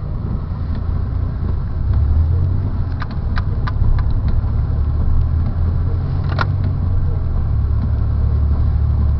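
Car running along a snowy road, heard from inside the cabin: a steady low engine and road rumble. A few short clicks come about three to four seconds in, and another sharper click about six and a half seconds in.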